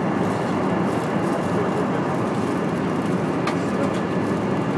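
Steady aircraft cabin noise in flight: an even rush of engine and airflow noise that does not change.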